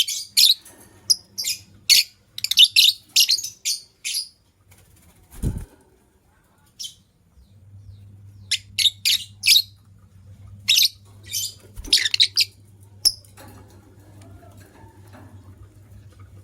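White lovebirds chirping in quick, sharp, high chirps: a dense run over the first few seconds, then more chirping in clusters after a pause. A single low knock comes about five and a half seconds in.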